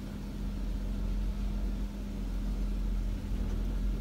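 Jeep Wrangler's engine idling with a steady low hum, heard from inside the cab.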